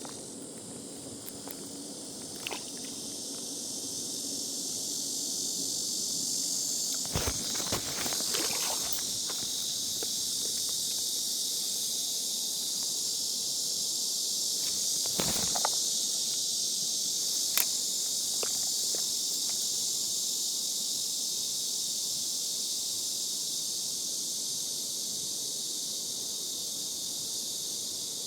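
A dense, steady chorus of insects buzzing high and shrill, swelling a few seconds in. A few sharp clicks and knocks stand out: a cluster about 7 to 9 seconds in, one near the middle and one a couple of seconds after it.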